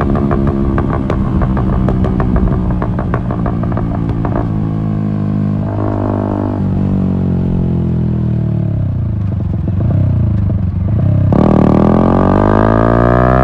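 Yamaha MT-125's single-cylinder engine through an Akrapovic exhaust: it runs under throttle at first, then the revs fall away for several seconds as the bike slows. About eleven seconds in the throttle opens sharply and the revs climb again.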